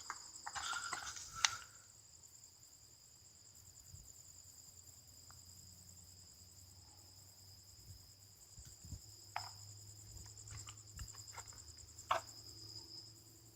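Insects trilling steadily in two high, even tones, the higher one finely pulsing, with a few soft knocks and clicks scattered through the latter half.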